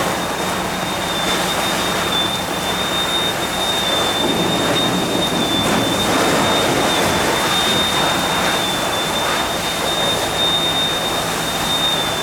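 Steady loud rushing of a firefighting water stream, over the low hum of a running pump engine, with a constant high-pitched whine.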